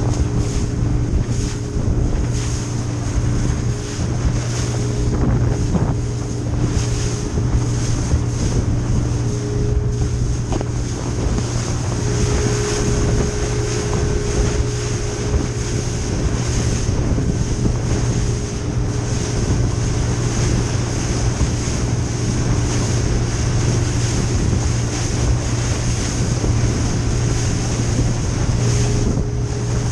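A small motorboat's engine running steadily under way, a constant low drone with a few steady higher tones. Wind buffets the microphone and water rushes past the hull.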